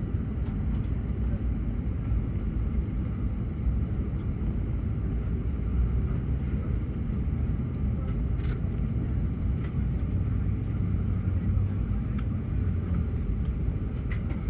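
Steady low rumble inside an Airbus A380's cabin on the ground before takeoff, the engines running at idle, with a brief faint click about eight seconds in.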